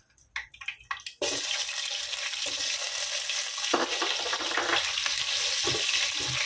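Raw potato pieces frying in hot oil and ghee in a pot: a steady loud sizzle that starts suddenly about a second in, with a few knocks from a silicone spatula stirring.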